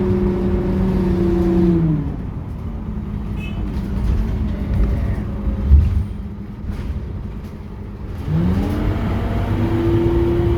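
Scania K230UB city bus heard on board: a steady whine from the engine and drivetrain falls away about two seconds in as the bus slows, leaving a low rumble with a single thump about halfway. Near the end the whine rises again and holds steady as the bus accelerates.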